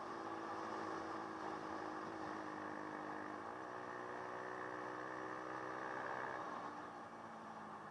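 Dirt bike engine running steadily. Its pitch steps up about halfway through, and it grows quieter near the end.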